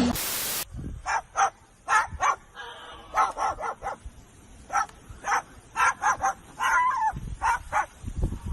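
A dog barking repeatedly in short, sharp yaps at an uneven pace. A brief loud hiss comes at the very start.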